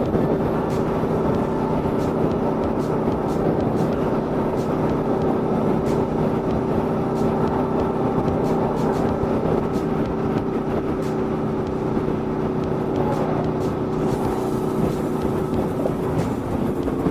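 Aprilia Tuono V4 motorcycle's V4 engine running at steady cruising revs, with wind rush over the moving bike.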